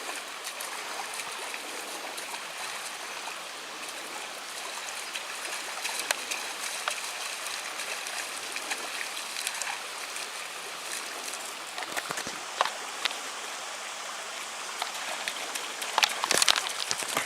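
Shallow river water running steadily over stones, with a few brief sharper sounds about twelve seconds in and again near the end.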